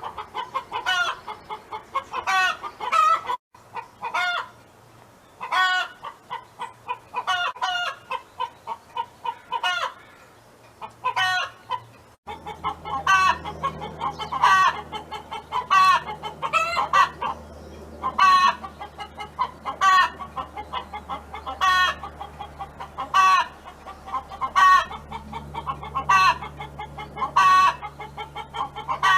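Hen clucking over and over, a steady series of short calls about one a second. A steady low hum joins underneath about twelve seconds in.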